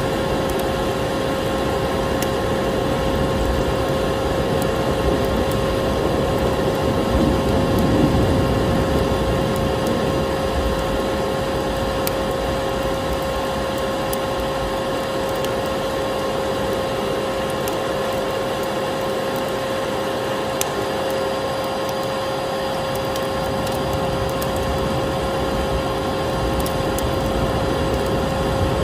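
Electric vacuum cleaner running steadily with a constant whine, over a wood fire crackling with scattered sharp pops.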